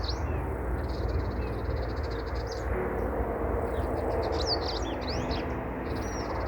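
Several wild birds chirping and calling: fast trills in the first couple of seconds, quick up-and-down chirps in the middle, and a run of repeated arching notes near the end. A steady low rumble sits underneath.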